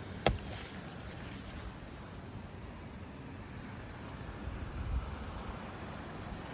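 Outdoor ambience, a steady low rumble of air on the microphone, with one sharp click about a quarter of a second in and a few faint, short, high chirps or ticks afterwards.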